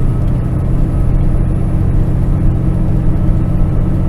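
Kenworth semi truck's diesel engine pulling steadily under light throttle up a grade, a steady low drone with a thin high whine above it.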